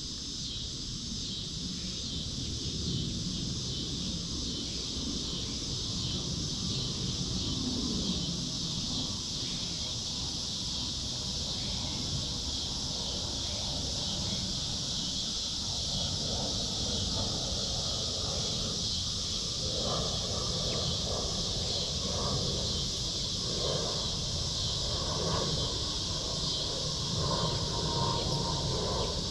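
A steady, high-pitched insect chorus, with a flock of hens clucking in short, soft calls that start about halfway through and go on to the end.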